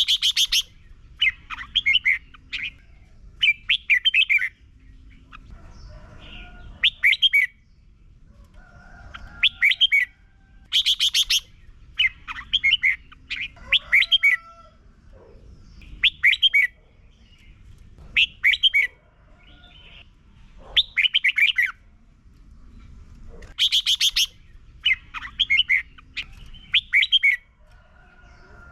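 Red-whiskered bulbul singing: short phrases of quick chattering notes, repeated every second or two with brief pauses. A few louder, sharper phrases come right at the start, about eleven seconds in, and near the end.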